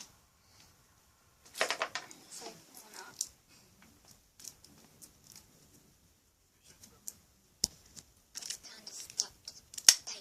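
A sweet wrapper being handled and torn open, with intermittent crinkling and tearing and a few sharp clicks.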